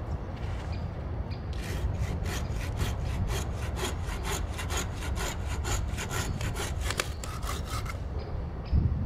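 Hand saw cutting through wood in quick, regular back-and-forth strokes, starting about a second and a half in and stopping near the end, followed by a dull thump.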